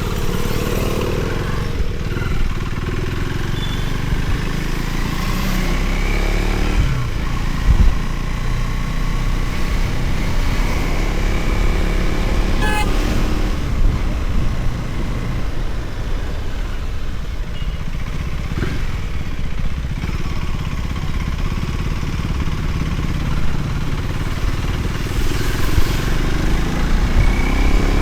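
Motorcycle engine running steadily while riding on the road, its pitch rising and falling a few times with the throttle.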